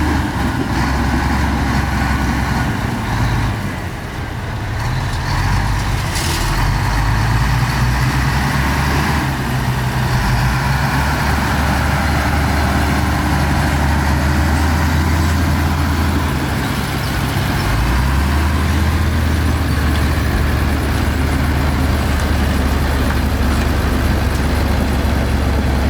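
Heavy diesel engines of earthmoving machinery running steadily. The engine note dips about four seconds in and changes again about two-thirds through, with a short hiss about six seconds in.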